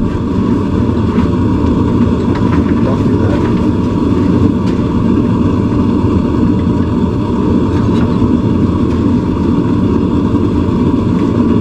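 Forge running with a loud, steady rushing noise, with a couple of faint clicks.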